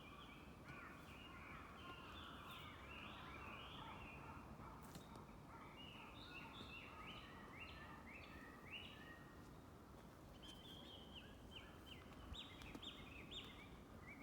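Birds singing: a faint, continuous run of short, quick chirps and falling notes, several overlapping.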